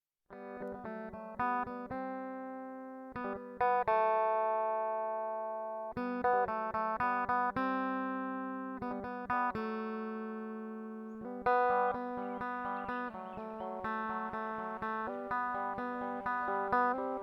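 Guitar music: plucked notes played one after another, each ringing and dying away, growing denser and busier about two-thirds of the way in.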